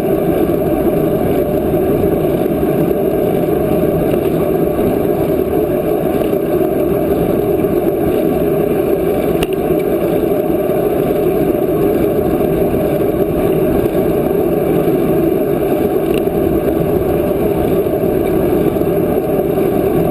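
Steady wind rush over the microphone of a camera riding along on a moving bicycle, an even, loud rumbling noise with no pitch to it.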